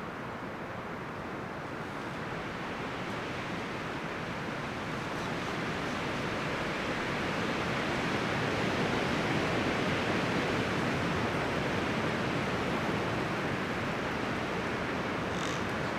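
Wind rustling through forest leaves and branches in a steady rush that swells gradually to a stronger gust about halfway through, then eases slightly.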